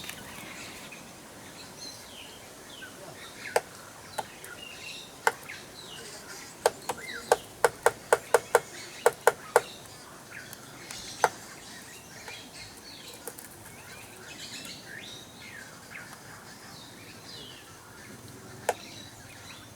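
Grey woodpecker pecking at its reflection in a car's mirror, attacking it as a rival: a few sharp single knocks, then a quick run of about a dozen taps over some three seconds, then a few more spaced knocks. Other birds chirp faintly behind it.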